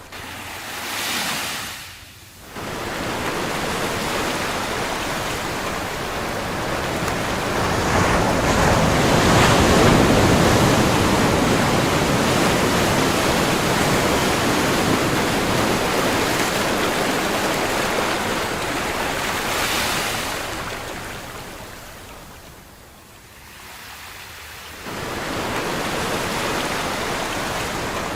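Ocean surf: waves breaking and washing in, swelling to their loudest about a third of the way in, then ebbing to a lull before the next wave comes in near the end.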